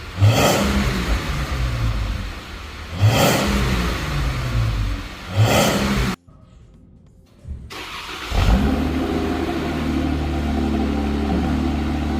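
Jeep Wrangler JK's V6 engine through an aftermarket valved end exhaust, blipped three times, each rev rising and falling quickly. It then cuts out for a moment and comes back in, settling into a steady idle for the last few seconds.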